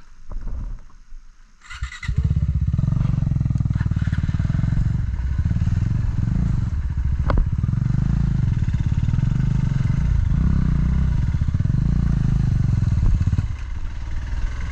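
Off-road motorcycle engine running under load. It comes in suddenly about two seconds in, then runs loud with the throttle swelling and easing again and again, and drops back near the end.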